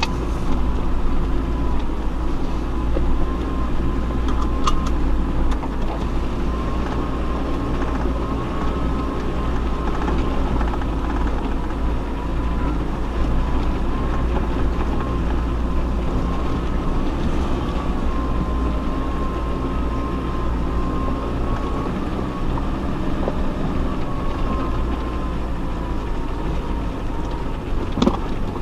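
Off-road 4x4 driving slowly over a rough track, its engine and drivetrain making a steady low rumble with a thin, wavering whine above it. A single sharp knock comes near the end.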